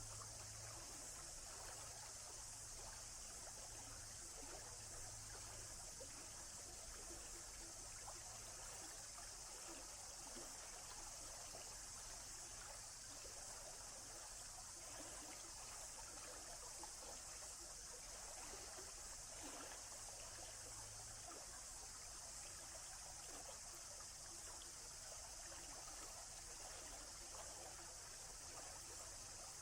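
A small stream trickling steadily. A faint low hum underneath stops about two-thirds of the way through.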